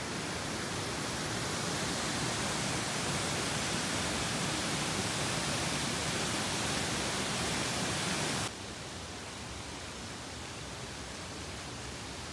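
Steady driving noise from a Subaru Sambar kei vehicle on the move, a hiss of tyre and wind noise with no distinct engine note. About eight and a half seconds in it suddenly becomes quieter.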